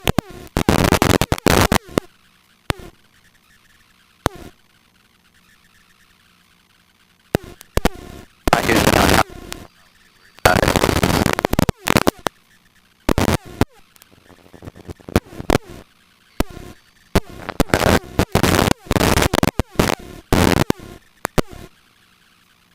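Harsh bursts of noise that switch on and off abruptly and irregularly, lasting from a fraction of a second to about a second and a half, over near-quiet gaps, as from a helicopter's headset intercom cutting in and out on cockpit noise.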